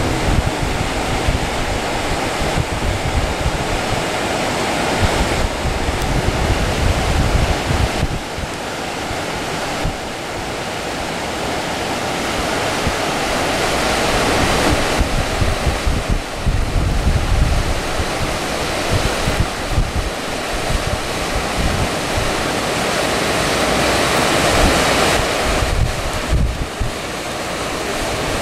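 Rain falling steadily, with wind buffeting the microphone in gusts.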